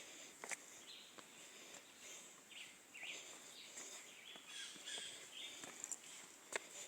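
Faint woodland ambience: birds chirping on and off over a steady high insect hum, with a sharp click about half a second in and another near the end.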